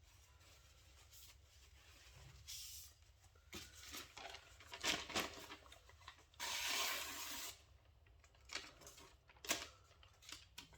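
Several strokes of a Japanese gyuto kitchen knife scraping across a sharpening stone, the longest about a second, with a few light clicks and knocks between strokes.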